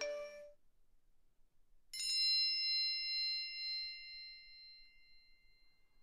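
A single bell-like ding sound effect: struck sharply about two seconds in, its several high tones ringing out and slowly fading over about three seconds. A brief chime tail dies away just at the start.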